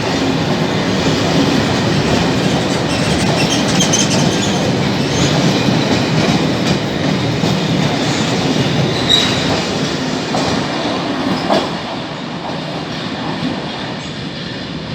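Freight wagons rolling past on the rails, with the wheels clacking over the rail joints and a brief high squeal about nine seconds in. The sound fades over the last few seconds.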